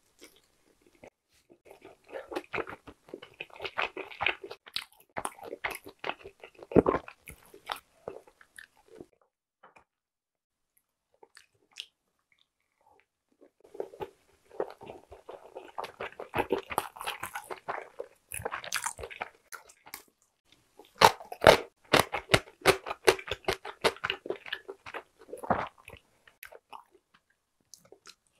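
Close-miked chewing of steamed dumplings, as mouth clicks in two long bouts with a quiet pause of several seconds in the middle; the loudest chewing comes about two-thirds of the way in.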